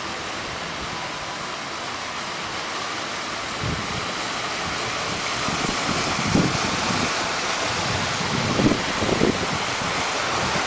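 Typhoon wind making a steady rushing noise, with gusts now and then buffeting the microphone in low thumps; it grows a little louder about four seconds in.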